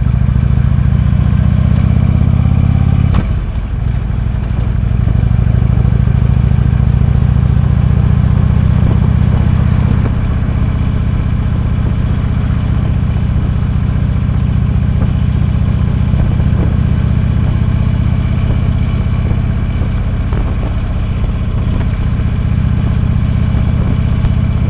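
Harley-Davidson V-twin motorcycle engine running under way, a steady low rumble that eases off briefly about three seconds in, then picks up again.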